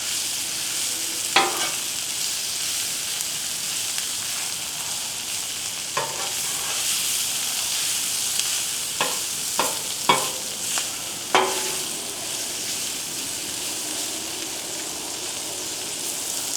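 Food sizzling steadily on a Blackstone flat-top griddle, with a scattering of short, sharp knocks and clicks through the middle of the stretch.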